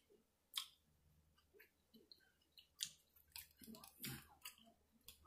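Faint chewing and small mouth clicks of a person eating, with a few short soft clicks scattered through.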